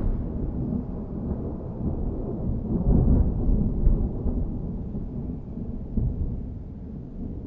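Thunder rumbling low and deep, trailing on from a clap, swelling again about three seconds in, then slowly dying away.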